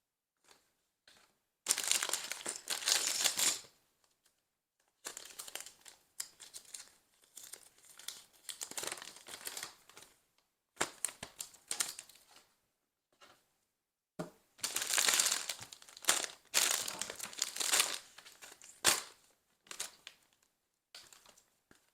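LEGO set packaging being opened and handled: plastic parts bags crinkling in several bursts, with small clicks in between.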